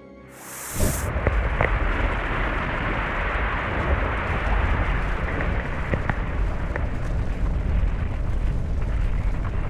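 A volcanic eruption giving a deep, continuous rumbling roar with scattered sharp cracks. It starts suddenly about a second in and holds steady.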